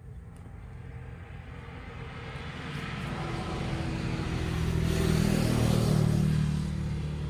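A motor vehicle's engine, growing steadily louder over several seconds as it draws near, then easing slightly near the end.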